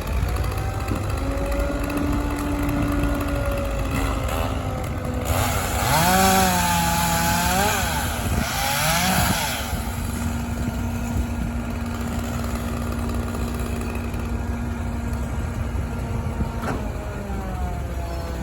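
Chainsaw revving up and down in two bursts, about six and nine seconds in, over a steady engine hum.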